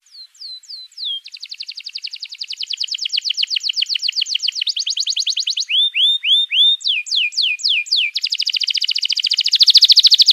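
A small songbird singing a fast, varied song: a few down-slurred whistles, then long rapid trills of repeated down-sweeping notes, a short run of separate swooping whistles, and another fast trill that grows loudest near the end. It is a clear, well-spaced song of the kind used as masteran to teach caged birds.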